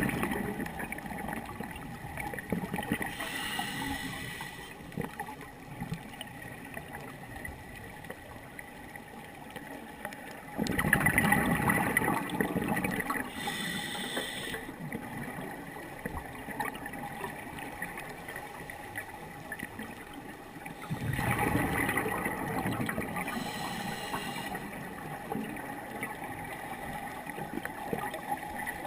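Scuba diver breathing through a regulator underwater: a gurgling burst of exhaled bubbles about every ten seconds, each followed by the shorter hiss of an inhalation, over a faint steady hum.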